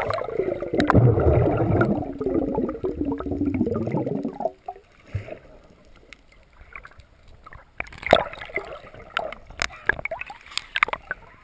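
Water gurgling and bubbling heavily around a submerged action camera for about four seconds, then dying away to quieter water with scattered knocks and splashes near the end.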